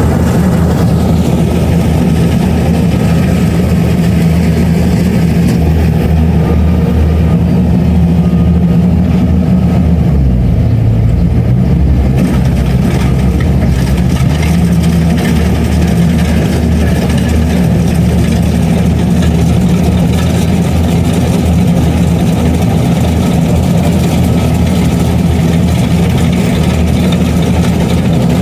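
Kubota DC-70 Plus combine harvester's diesel engine running steadily while harvesting rice. Its note shifts briefly about ten seconds in.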